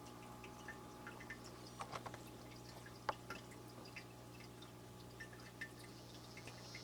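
Faint water drips and small scattered clicks in a dwarf frog aquarium over a steady low electrical hum, with one sharper tick about three seconds in.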